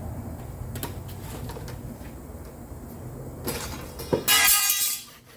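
A few light clicks and knocks of handling over a low steady hum, then a loud scrape lasting under a second near the end.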